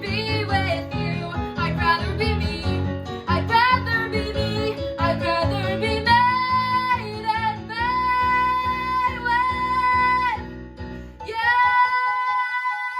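A young female voice singing a song with guitar accompaniment, moving into long held notes about halfway through. Near the end the guitar drops out, leaving a sustained sung note.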